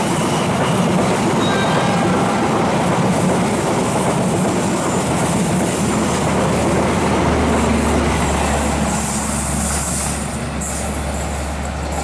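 Railway carriages rolling past at close range: steady wheel-on-rail noise and clatter with some wheel squeal, easing a little near the end as the train goes by.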